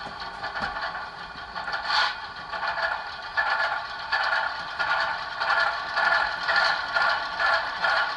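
ESU LokSound decoder in an HO-scale ES44AC model locomotive playing a GE Evolution series diesel engine sound through its small speaker, thin and without bass, pulsing about twice a second. A rattle runs through it, which the owner puts down to something loose inside the locomotive.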